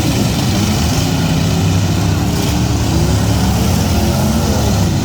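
Several demolition-derby cars' V8 engines running loud and revving, their pitch rising and falling, with no clear crash.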